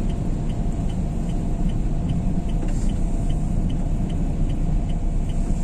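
Steady engine and road rumble inside the cabin of a diesel Renault Kangoo, with the turn-signal indicator ticking about two and a half times a second, set for a left turn.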